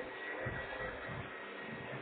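Vacuum cleaner running steadily, a constant whine over a noisy rush, with some low bumps.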